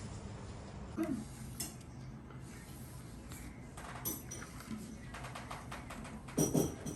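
Dishes and utensils clinking and knocking a few separate times during kitchen food preparation, the loudest cluster near the end.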